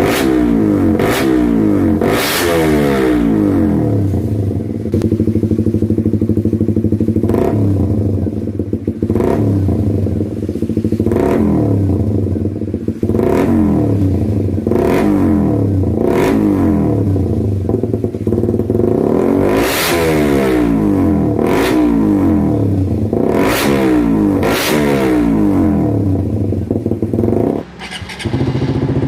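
Suzuki GSX-R150's single-cylinder engine running through an aftermarket exhaust, idling and revved in quick throttle blips that rise and fall in pitch every second or two. Near the end it cuts out briefly and comes back at a steady idle.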